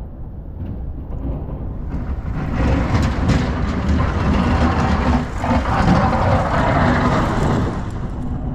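City street traffic: motor vehicles passing, a continuous rumbling noise that grows louder about two and a half seconds in.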